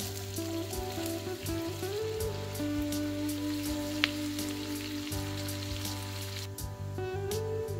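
Sliced onion tipped into hot melted butter in a nonstick frying pan and sizzling, a steady fine crackle of frying. One sharp click about four seconds in.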